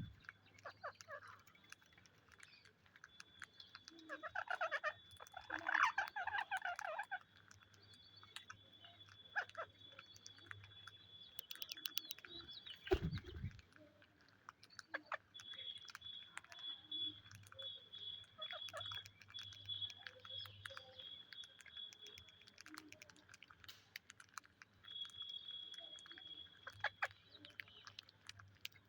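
Pet Psittacula parakeets chattering softly in a short run of calls about four to seven seconds in, with scattered small clicks throughout. Underneath is a steady high-pitched whine and a low hum.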